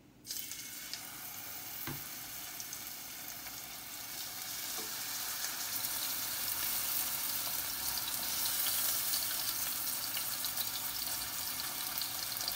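Pork chops sizzling in a frying pan on the stove, a steady sizzle with fine crackling that starts suddenly at the outset and grows slightly louder. There is one light knock about two seconds in.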